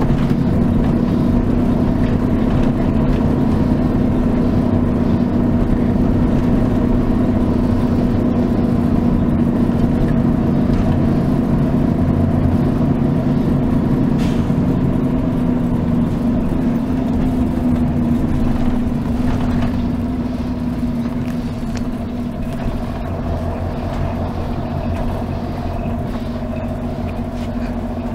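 Mercedes-Benz O 403 SHD coach's V8 diesel engine running steadily under way, heard from inside the bus. About two-thirds of the way through, the engine note falls slightly and gets quieter.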